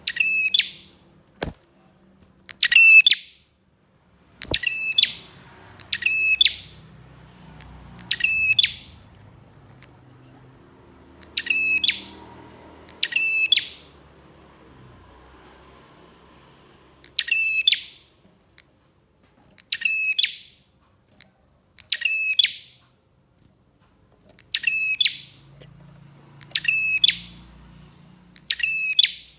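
Prenjak (prinia) calling: a short, sharp, rapid-fire phrase repeated about every one to three seconds, with a longer pause about halfway through. Two brief clicks sound in the first few seconds.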